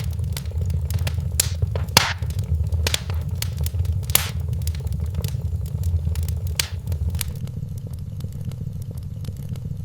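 Wood fire in a fireplace crackling, with a steady stream of small snaps and four louder pops about two seconds apart, over a low steady rumble of the burning fire.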